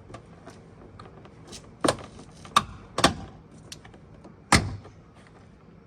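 Plastic trim clips of a Fiat 500 door card snapping loose as the panel is pried off the door with a trim tool: four sharp cracks from about two seconds in, with faint clicks and scraping between.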